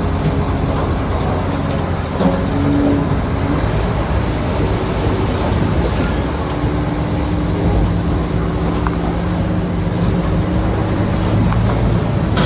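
Heavy diesel earthmoving machinery working: a steady engine drone with rumbling and clattering. The engine note rises a little about halfway through.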